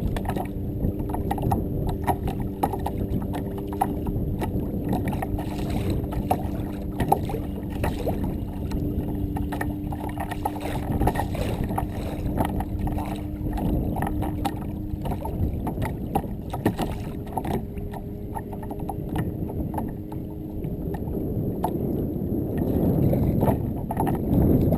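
A kayak under way on a lake: steady water and hull noise with scattered small knocks, a faint low steady hum in the first part, and a swell of low rumbling noise near the end.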